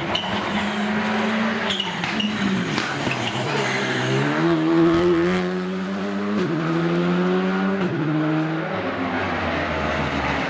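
Rally car engine under hard acceleration, the pitch climbing and dropping sharply at each gear change, about three shifts, with a few sharp cracks.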